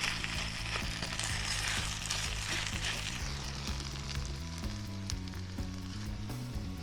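Food sizzling in a hot pan, loudest for the first few seconds and then settling to a quieter sizzle. Background music plays underneath.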